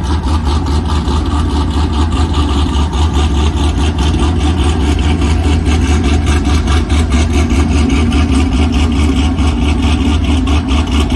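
V8 car engine idling loudly and steadily through its exhaust, with a fast, even pulsing beat.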